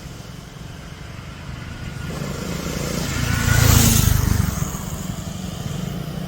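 Motorcycles running on the road, a low engine rumble with one bike swelling up loudest and passing about three and a half to four seconds in.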